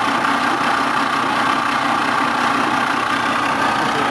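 The freed-up 1948 Willys CJ-2A's Go Devil four-cylinder flathead engine being spun over steadily by its starter on jumper cables, turning without firing.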